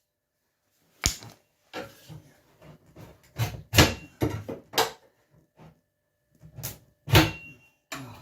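Sharp knocks and clatter of a kitchen cabinet plinth being tugged and levered with a hooked tool, rattling against the clips that still hold it on.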